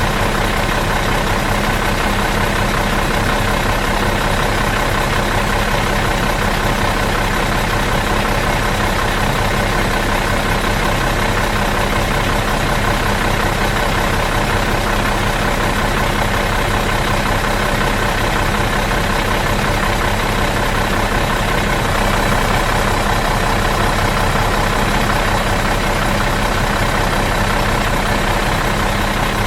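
Bus diesel engine idling out of gear, a steady, even run with a constant low hum and droning tones that do not change.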